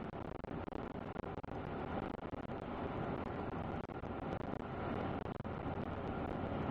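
Steady road and engine noise of a truck driving at speed, with wind.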